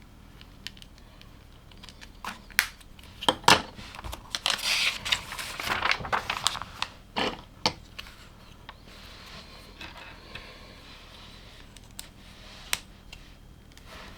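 Plastic LEGO pieces being handled and snapped together: scattered sharp clicks and taps, with a busy stretch of rustling and clattering in the middle, then a few single clicks near the end.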